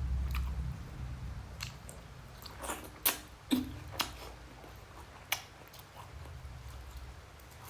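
A person chewing a mouthful of rice and egg curry, with several sharp, wet smacks and clicks of the lips and mouth scattered through it.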